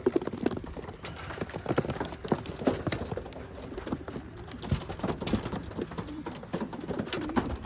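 Racing pigeons shuffling and scrabbling inside a transport crate, with irregular light knocks and clatter from the crate being handled.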